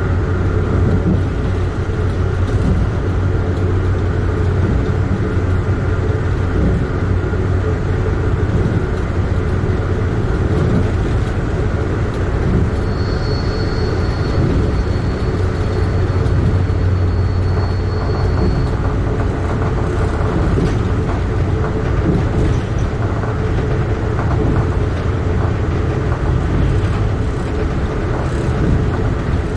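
Amtrak Keystone passenger train running along the track, heard on board: a steady rumble of wheels on rail with a strong low hum. A thin high whine joins for about five seconds near the middle.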